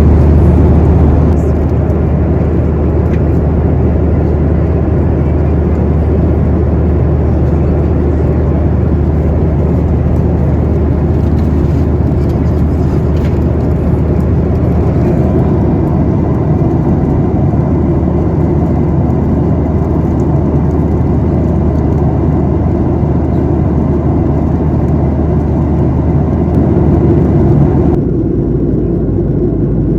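Steady cabin noise of a Boeing 737-900ER heard from an economy seat: the low, even drone of the jet engines and airflow, with a strong low hum. The sound shifts abruptly a couple of seconds before the end.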